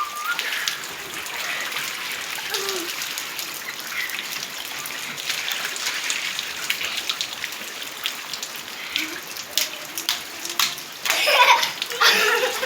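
Heavy rain falling, with many sharp drips and splashes into standing floodwater. The sound grows louder near the end.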